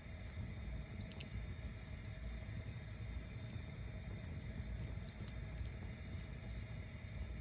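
Tower-stacked wood bonfire burning: a steady low rumble of flame with scattered small crackles and pops.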